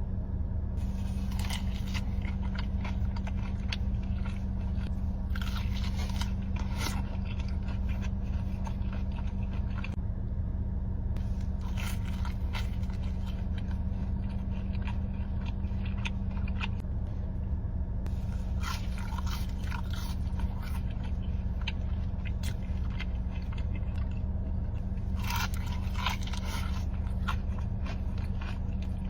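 Close-miked eating: crunchy bites and chewing that come in bursts every few seconds, over a steady low hum.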